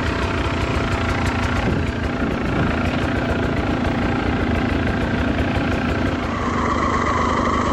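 Two-stroke dirt bike engine running at low, steady revs while riding a slick, muddy trail; a higher steady tone comes in about six seconds in.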